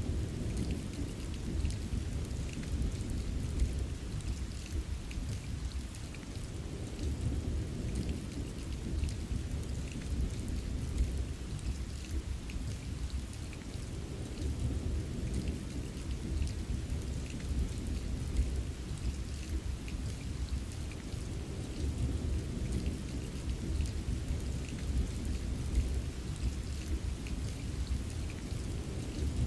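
Steady heavy rain with a constant low rumble of thunder and scattered drop ticks.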